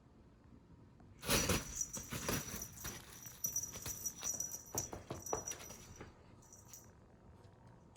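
A cat playing with a toy: a burst of scuffling and rattling starts about a second in and dies away about six seconds in.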